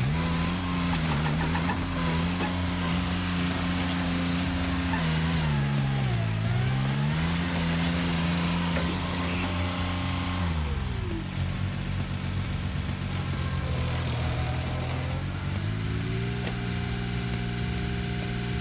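Rotary stump grinder's engine running under load. Its pitch sags and recovers about six seconds in, drops a little before the middle, then rises again near the end.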